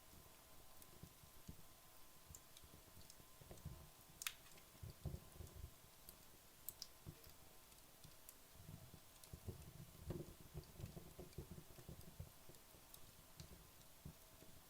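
Wood fire burning low late in its burn-down, giving faint, scattered crackles and small pops, the sharpest about four seconds in, over a soft low flutter of the flames.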